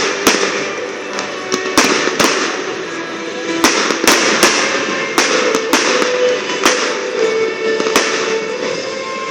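Fireworks bursting overhead: more than a dozen sharp bangs at irregular intervals, each trailing off in a brief echo, with music playing underneath.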